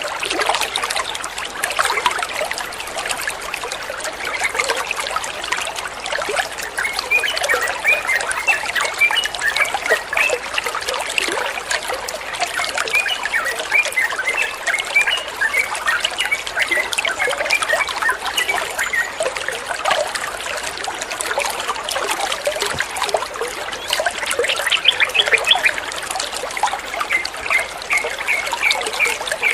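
Water trickling and splashing steadily, with runs of short high chirp-like notes over it.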